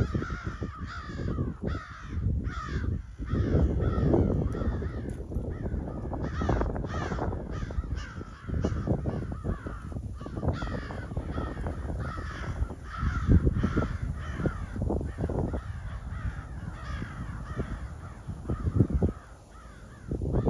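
A flock of crows cawing, many calls overlapping without pause, with bursts of low rumble beneath.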